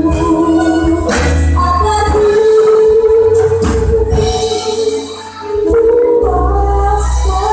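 An Indonesian worship song sung with instrumental accompaniment: long held sung notes over bass and light percussion, with a brief drop in level about five seconds in.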